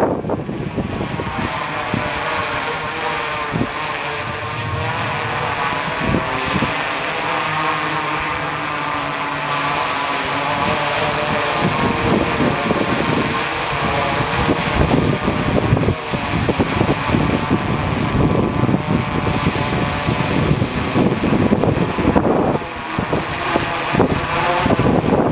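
DJI Inspire 2 quadcopter's propellers buzzing in flight, a steady whine whose pitch wavers as the motors adjust, with wind buffeting the microphone.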